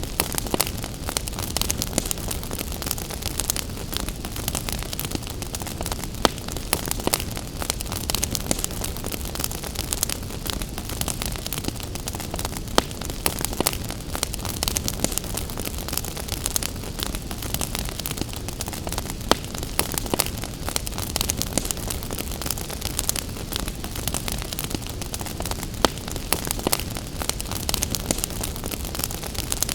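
Wood fire crackling, with frequent irregular sharp pops, over a steady hiss of gentle rain.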